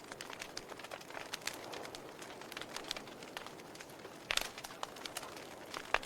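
Wood fire burning in a fireplace, crackling with scattered sharp pops of the burning logs, the loudest pop about four seconds in and another near the end.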